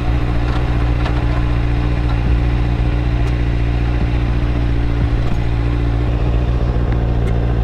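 Motorcycle engine running steadily at a low, unchanging pitch, with no revving.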